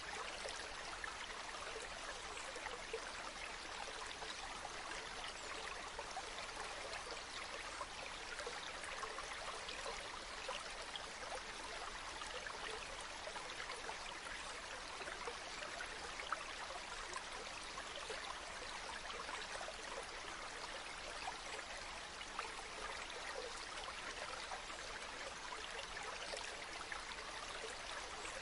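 Waterfall: a steady rush of falling water, with small splashes and droplets flickering through it the whole time.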